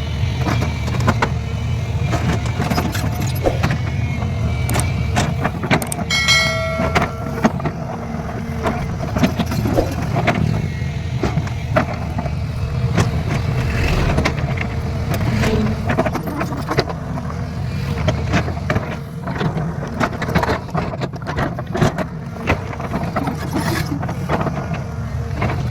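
Hydraulic excavator working: its diesel engine runs steadily under many short metallic knocks and clanks, with a brief shrill tone about six seconds in.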